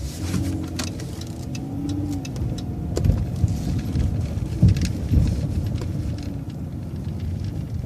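City transit bus driving, its engine and road rumble running steadily, with a whine that holds for the first three seconds or so.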